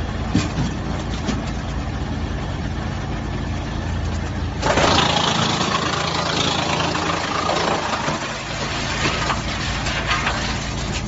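55 kW wood chipper running steadily, then about halfway through wood is fed in and it chips with a loud, crackling grinding noise for a few seconds, easing off near the end with scattered cracks.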